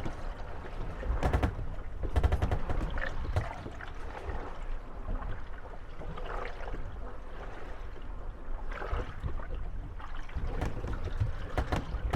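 Moored wooden gondolas rocking on the waves, knocking against each other with sharp hollow thuds and creaking, over the steady slosh of water. Clusters of knocks come about a second in, around two seconds, and near the end.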